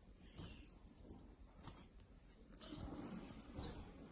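An insect chirping: trains of rapid, evenly spaced high-pitched pulses, each about a second long, heard twice, faint against the outdoor background.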